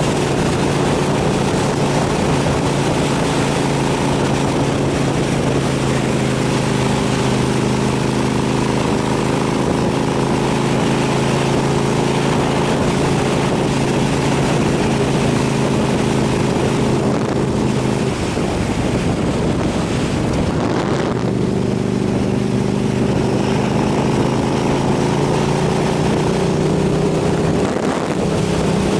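KTM 990 SMR's V-twin engine running at a steady speed on the road, with wind rushing over the microphone. About two-thirds of the way through the steady engine note breaks up for a few seconds, then settles back in.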